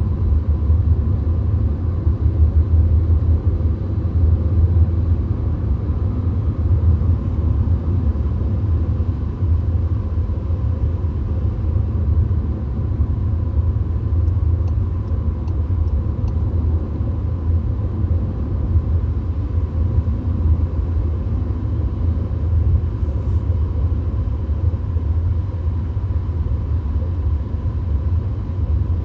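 Steady low rumble of a VW Golf cruising on the highway, heard from inside the cabin: tyre and road noise with the engine droning underneath, unchanging throughout.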